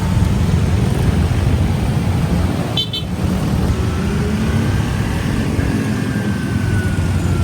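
Riding a motorcycle in heavy traffic: a steady rumble of wind on the microphone with engine and traffic noise, and a short vehicle horn toot about three seconds in.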